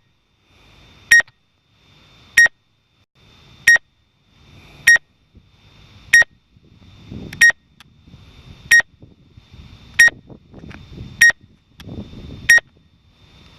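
Drone remote controller sounding its obstacle-avoidance proximity warning: short, sharp, identical beeps repeating evenly about every second and a quarter, meaning the drone's sensors detect something close by.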